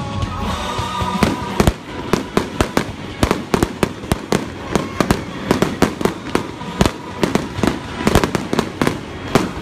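Aerial fireworks shells bursting in a rapid barrage, about four or five sharp bangs a second, starting about a second in.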